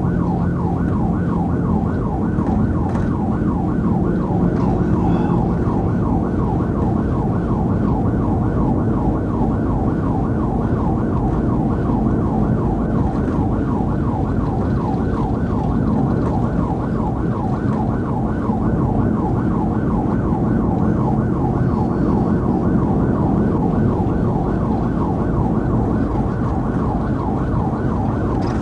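Police car siren in a fast yelp, its rising sweeps repeating about three times a second, over the patrol car's engine and road noise.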